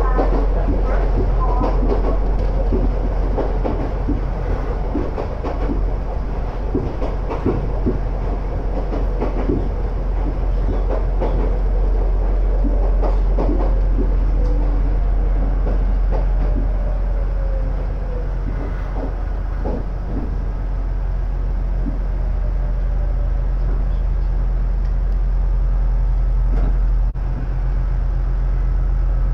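Inside an ex-Tokyu electric train car on the Iga Railway: steady running rumble with wheels clicking over rail joints, the clicks thickest in the first half. A faint falling whine comes in about midway, and the sound breaks off sharply for a moment near the end.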